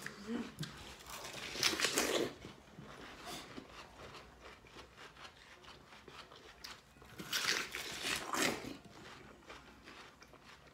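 Juicy watermelon being bitten and chewed, wet crunching and slurping mouth noises, with two louder bouts of bites, about two seconds in and again near eight seconds.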